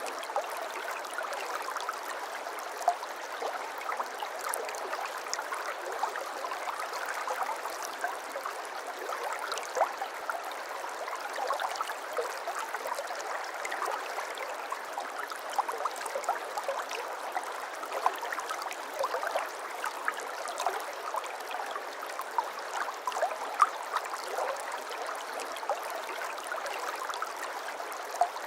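Water flowing and babbling steadily over a shallow stream bed, with many small gurgles and drips popping out of a constant rush.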